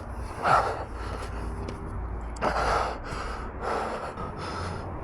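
A runner's heavy breathing, out of breath from running: loud breaths every one to two seconds, the first the loudest.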